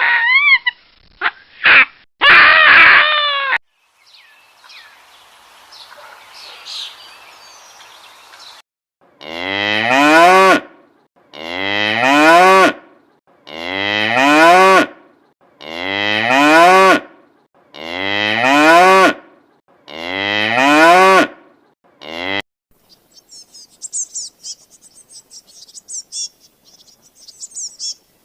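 A cow mooing: seven long, loud moos at even intervals of about two seconds. Near the end, high, fast cricket chirping takes over.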